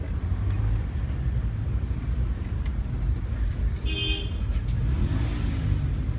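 Low, steady rumble of a car being driven, heard from inside, with one short car-horn toot about four seconds in.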